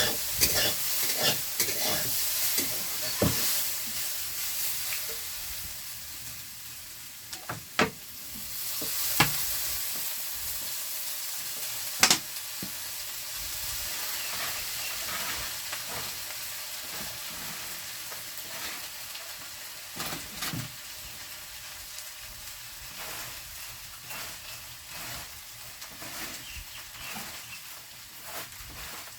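Food frying in hot oil in a pan with a steady sizzle. A utensil stirs it, scraping and clicking against the pan, with a few sharp knocks.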